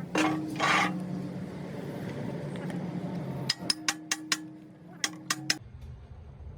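Two quick runs of sharp metallic clinks and taps, over a steady low hum that cuts off suddenly near the end. Two short hissing bursts come in the first second.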